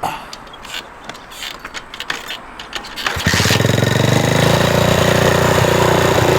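A few light clicks and knocks, then about three seconds in a two-stroke dirt bike engine fires up and keeps running steadily.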